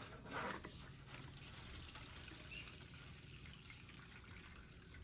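Old gasoline heavily contaminated with water being poured out of a push mower's fuel tank into a grease pan: a brief louder splash at the start, then a faint steady trickle.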